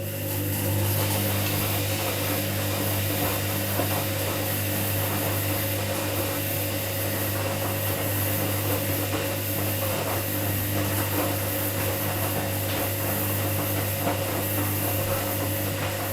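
Washing machine running: a steady hum with a rushing hiss over it, which starts at the beginning and cuts off suddenly near the end.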